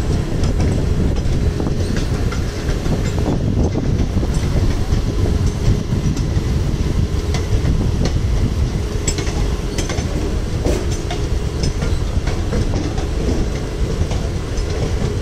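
Mumbai suburban electric local train running along the track, heard from its open doorway: a steady rumble of wheels on rail with scattered clicks as the wheels pass over rail joints.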